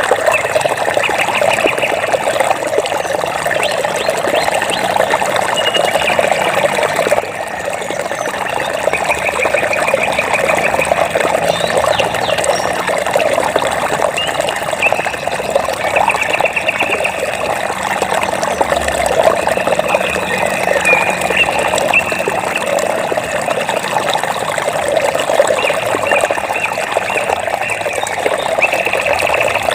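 Flowing water splashing and rushing steadily, with short high trills from a small animal recurring every few seconds over it.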